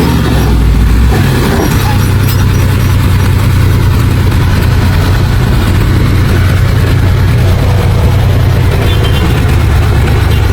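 Heavy diesel engine of earthmoving machinery running steadily with a deep, loud drone, its pitch shifting once about a second in.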